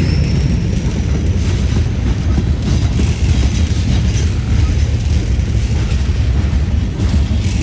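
Freight cars of a CSX manifest train rolling past: a steady, heavy low rumble of steel wheels on the rails.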